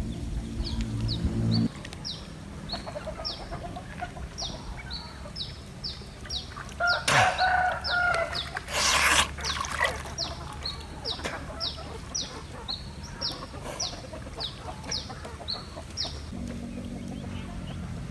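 Rooster crowing about seven seconds in, over a small bird's repeated short, high, falling chirps, two or three a second. A low motor hum is heard at the start and again near the end.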